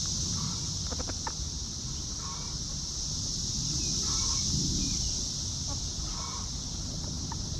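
Chickens clucking softly, a short call about every two seconds, over a steady high hiss and a low rumble.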